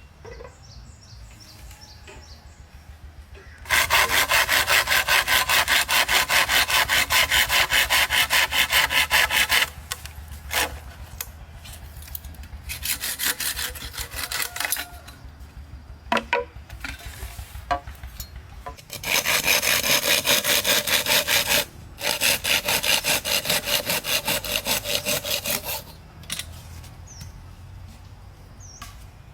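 A saw cutting wood in quick, even back-and-forth strokes. It comes in four bouts of a few seconds each, with short pauses between.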